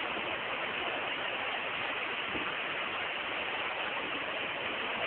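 Steady rushing noise of water, even and unbroken, with no distinct events.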